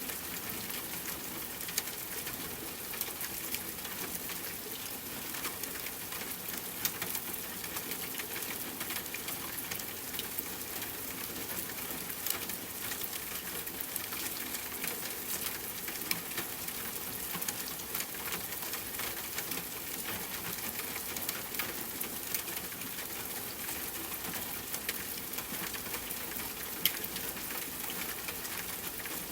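Steady rain falling on a tent: a dense patter of drops with scattered sharper ticks, and two louder pops, about two seconds in and near the end.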